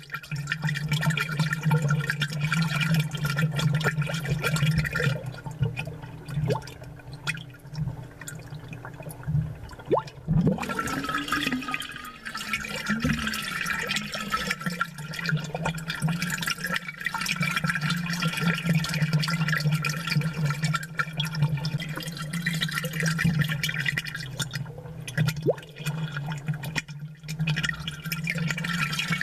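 Aquarium bubbler streaming air bubbles, a steady gurgling and bubbling over a constant low hum. The bubbling eases for a few seconds about a third of the way in, then picks up again with a gurgle.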